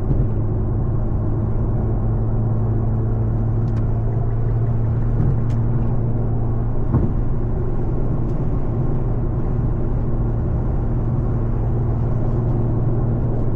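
Infiniti Q50 cruising on the highway, heard from inside the cabin: a steady low engine and exhaust drone over road and tyre noise, with a few faint clicks.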